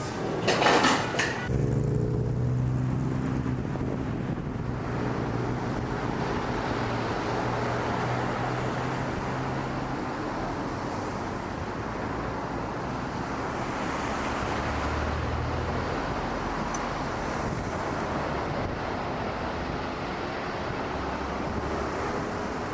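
Steady running noise of a vehicle, with a low engine hum that comes and goes.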